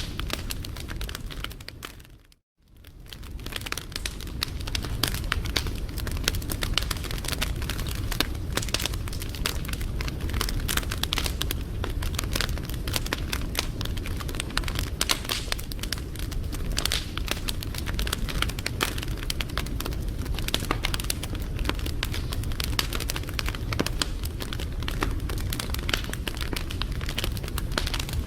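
Wood fire crackling, with a dense run of small sharp pops over a steady low rumble. The sound fades out to silence for a moment about two seconds in, then fades back up.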